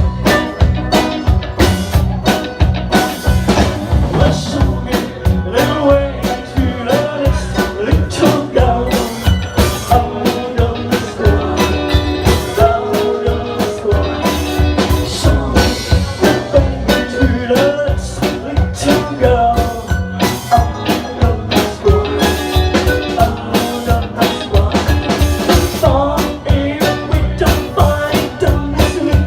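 Live rock band playing, with a drum kit keeping a steady beat under the instruments.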